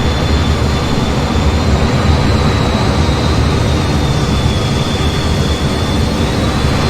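F-15 jet engine noise, a loud, unbroken steady rush with a faint high whine held on top that drifts slightly in pitch.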